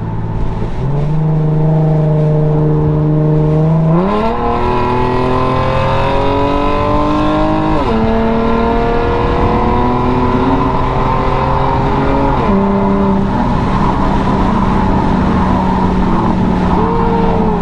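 Infiniti G37x's 3.7-litre V6 through a muffler- and resonator-deleted exhaust, accelerating hard. The revs climb, drop at an upshift about 8 s in, climb again, drop at a second upshift about 12.5 s in, then settle into a steady cruise.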